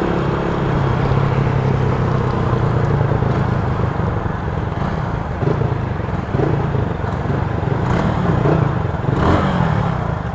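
Motorcycle engine running steadily while riding, under a steady rush of wind noise.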